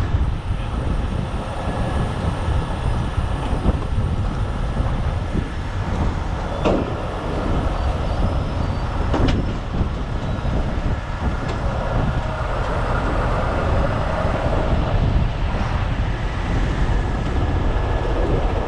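Heavy diesel truck engine running with a steady low rumble, and a couple of short metallic clanks.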